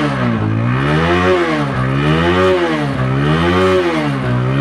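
TVS Apache RTR single-cylinder motorcycle engine revved up and down by hand about four times, its note rising and falling roughly once a second, to show the bike's throttle response (pickup).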